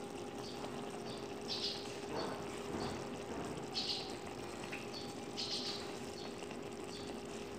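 Short, high chirps, like small birds calling, repeating every second or so over a steady low hum and faint hiss.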